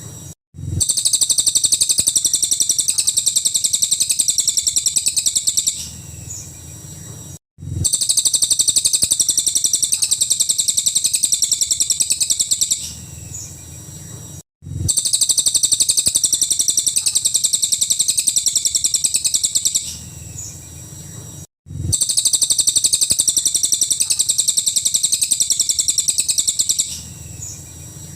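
A cililin song bird singing loud, rapid high-pitched trills, each burst lasting about five seconds. Each burst is followed by a softer stretch with a sliding note and a short break, and the pattern repeats every seven seconds or so, four times.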